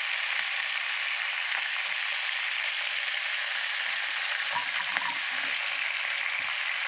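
Chunks of raw eggplant sizzling steadily in hot oil in a frying pan, a freshly added batch being shallow-fried.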